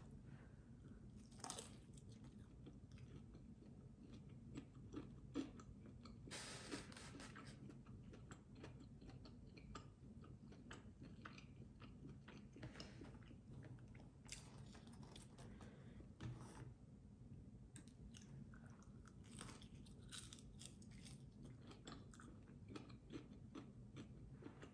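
Faint close-miked chewing and biting of fried chicken wings, with many short, scattered crunches.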